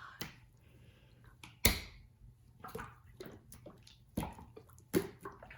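Very wet, goopy slime squelching and popping as hands squeeze and pull it: irregular wet pops and clicks, the loudest about a second and a half in, more a little before the end.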